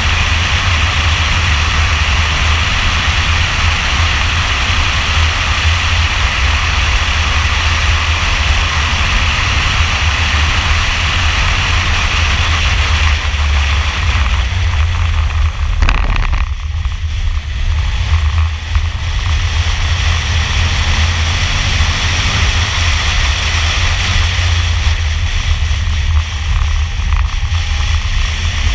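2002 Camaro Z28's LS1 V8 running hard at track speed, heard from inside the cabin over road and wind noise, with a low, steady drone. About halfway through the sound eases as the driver lifts off the throttle for a corner, then builds again.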